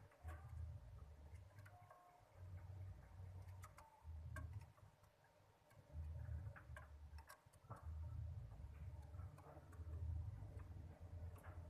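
Faint scattered clicks and ticks over a low rumble that comes and goes every second or two.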